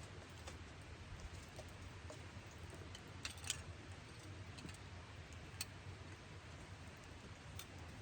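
A few faint, sharp clicks, the loudest a short cluster about three and a half seconds in, over a steady low hum.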